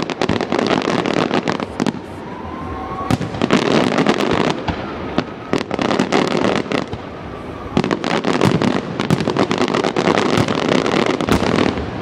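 Fireworks display: dense volleys of crackling bangs and pops, in clusters separated by brief lulls.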